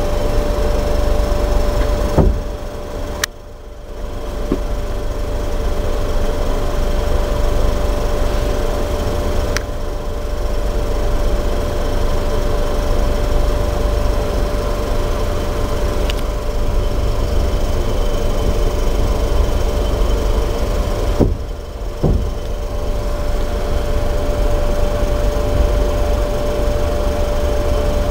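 A passenger train coach rolling slowly through a station, heard from inside: a steady low rumble with a constant hum over it and a few faint clicks. The rumble dips briefly about three seconds in and again after twenty seconds.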